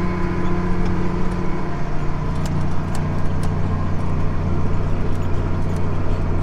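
Tractor engine running steadily, an even low hum with a noisy wash on top.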